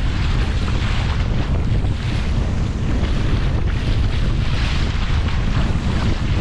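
Wind buffeting the microphone: a steady low rumble with a hiss that swells and fades.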